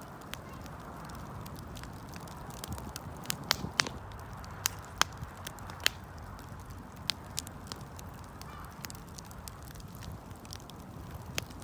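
Wood campfire crackling, with sharp pops and snaps at irregular moments over a soft, steady hiss of burning.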